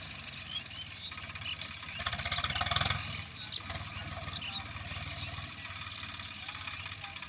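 Walk-behind tractor's engine running with a rapid low pulse, growing louder for about a second a couple of seconds in.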